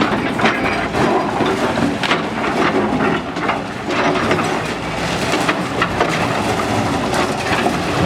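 Demolition din: steady crunching and clattering with many short knocks throughout.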